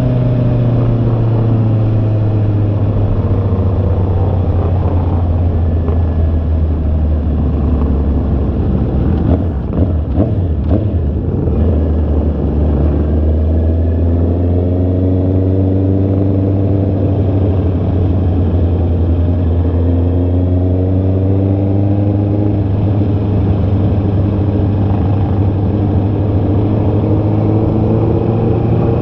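Honda CB650R's inline-four engine running on the move, its pitch rising and falling as the rider accelerates and eases off. The note breaks up briefly about ten seconds in.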